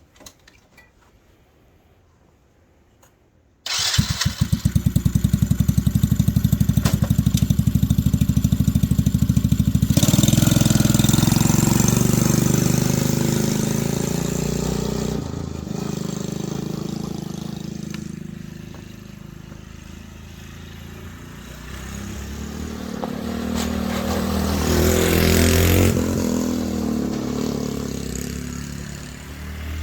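A go-kart's small engine comes in suddenly about four seconds in, running with a fast even beat. The kart then drives off, the engine fading, growing louder again as it comes back past, and dropping away near the end.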